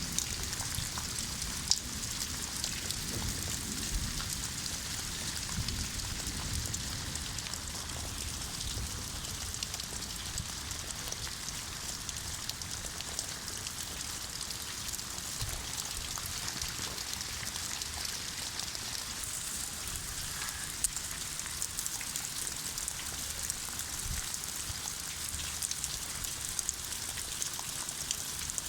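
Steady rain falling, a constant hiss of many small drop ticks, with a couple of louder single drops.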